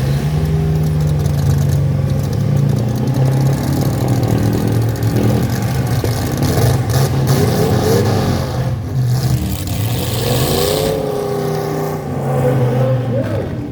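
Full-size pickup trucks' engines running and revving hard in a demolition derby, pitch rising and falling, with a couple of clattering knocks from the trucks colliding about seven and nine seconds in.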